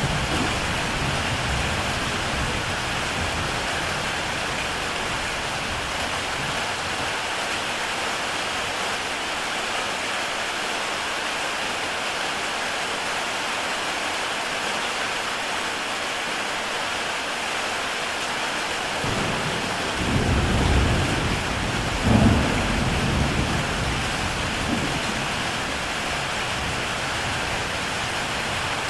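Heavy rain on a tile roof, a steady dense hiss. Low rumbles fade out as it begins and return about twenty seconds in, swelling sharply once.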